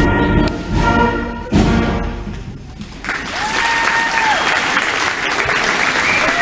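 A middle school wind band plays the last notes of a piece and holds a final chord that dies away. About three seconds in, the audience breaks into applause, with a couple of whoops over it.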